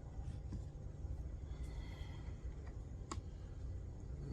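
Light clicks of parts being handled, with one sharper click about three seconds in, over a low steady rumble.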